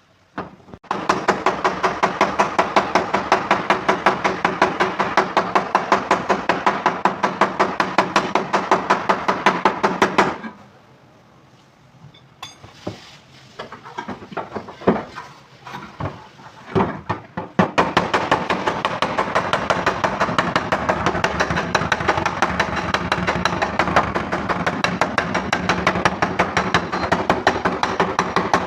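Rapid, even hammer taps on the sheet-metal boot lid of a Kia Sonet, beating out a dent; the panel rings with each blow. The tapping stops about ten seconds in, leaving a few scattered knocks, and starts again about eighteen seconds in.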